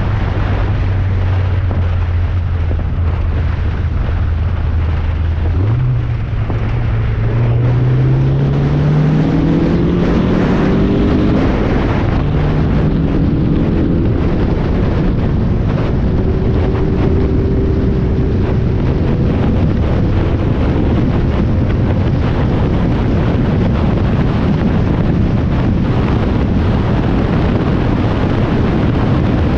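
Spec Miata race car's inline-four engine heard from onboard at speed under heavy wind and road noise. It holds a steady low note for about six seconds, then climbs in pitch as the car accelerates, and runs on at higher revs for the rest.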